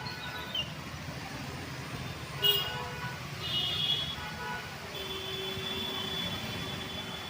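Street traffic running past with the low rumble of engines, a sharp knock about two and a half seconds in, short horn toots a little later, and a horn held steadily for the last couple of seconds.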